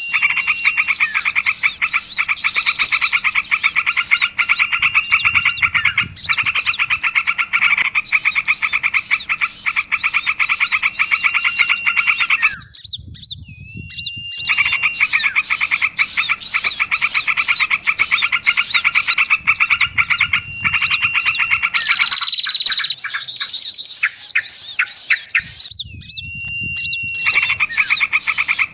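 A lure recording of several small songbirds calling at once in an agitated din of dense, rapid chirps and trills, over and over, with a held whistle note that breaks off and returns. It stops briefly about halfway through and again near the end.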